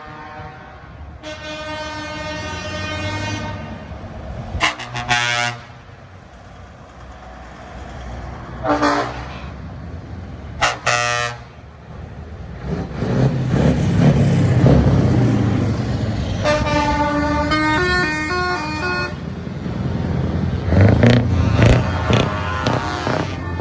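Trucks passing and sounding their air horns: a long blast, then several short toots, then a horn stepping through several different notes. Loud diesel engines with open pipes swell up between the horns, the loudest in the middle.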